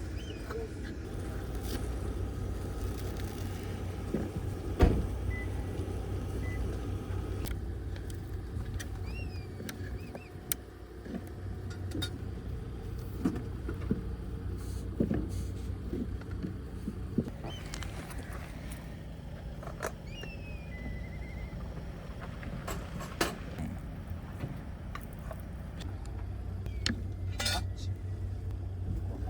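Metal camp cookware and utensils clinking and knocking now and then, over a steady low rumble.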